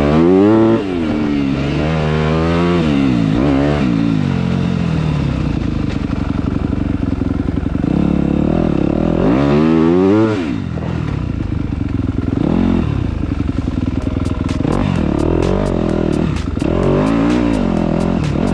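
Dirt bike engine revving up and down as it is ridden, its pitch rising and falling again and again with the throttle.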